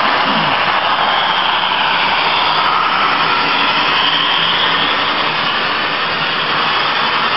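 Model trains running on the layout: a steady rushing whir of small wheels on rails and motors, without a break.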